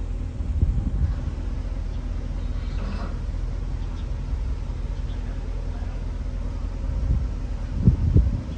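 Ford 400 cubic-inch supercharged V8 idling with a steady low rumble, swelling briefly louder near the start and again near the end.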